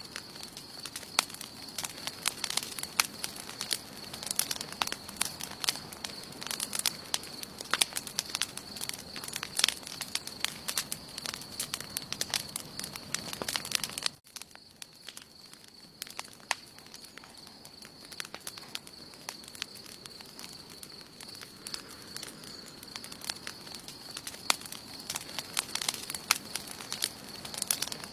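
Wood campfire crackling, with many sharp pops and snaps; about halfway through the sound drops suddenly in level and the pops become sparser. A faint steady high-pitched tone runs underneath.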